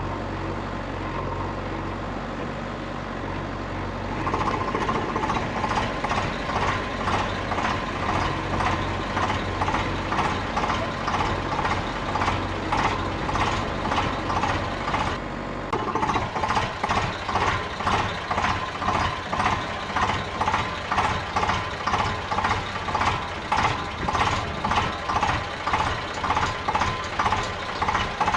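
A steady low motor hum, then from about four seconds in a rhythmic beeping about twice a second, like a vehicle's reversing alarm. The low hum drops away about halfway through while the beeping goes on.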